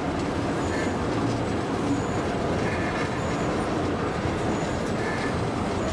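Steam-hauled heritage train running along the line: a steady, even rumble and rattle of the train under way.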